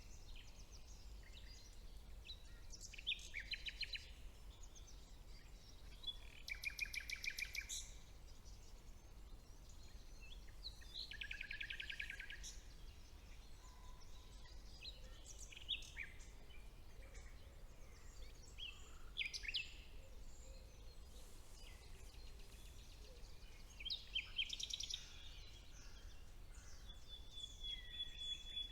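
Songbirds singing, several bursts of rapid, repeated high trilling notes every few seconds, over a faint steady low rumble.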